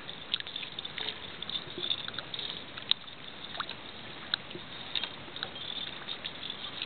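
Water washing and dripping around a kayak hull: a steady wash with scattered sharp ticks of droplets.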